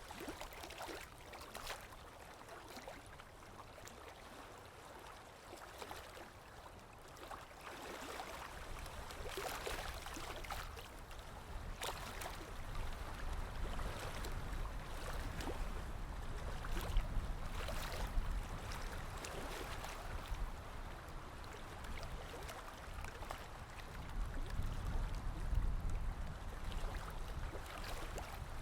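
Running water like a small stream, trickling and splashing irregularly. A low rumble underneath grows stronger partway through.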